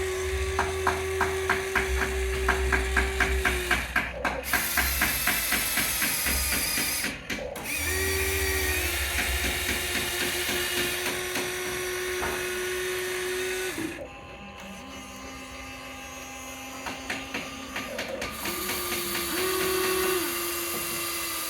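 Small electric gear motors of radio-controlled construction models whining at a steady pitch in several stretches. A rapid clicking of about five ticks a second runs through the first few seconds and comes back near the end.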